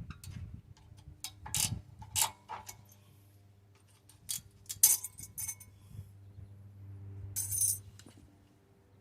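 Old brake pad hardware clips being worked out of a disc brake caliper bracket: scattered sharp metallic clicks and clinks, with a short scrape near the end.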